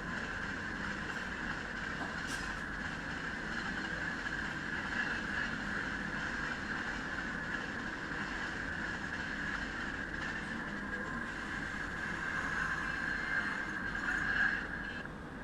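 Indian Railways train running at high speed, a steady rushing and rolling noise of wheels on rail with a few faint clicks.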